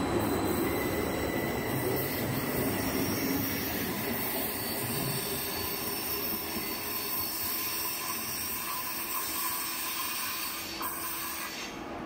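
WestfalenBahn Stadler KISS double-deck electric multiple unit departing, running past and pulling away, its rumble and rolling noise gradually fading. Thin high-pitched tones ring over the rumble.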